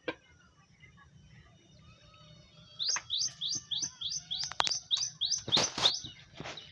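A bird giving a quick run of about a dozen repeated high chirps, roughly three a second, starting about three seconds in, with a few louder rustling knocks among them near the end.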